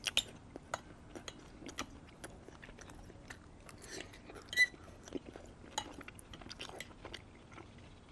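A person chewing food close to the microphone: soft, wet mouth clicks and smacks, with one louder smack about four and a half seconds in.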